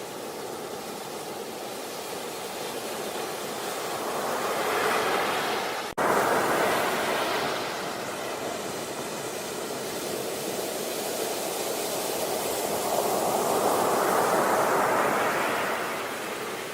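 Sea waves washing onto a beach: surf noise swelling and easing off twice. There is a brief sudden gap about six seconds in.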